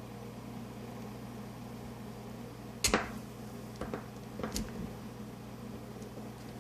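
A sharp click about three seconds in, followed by a few lighter clicks, from small metal parts of a spinning reel being handled during reassembly, over a steady low hum.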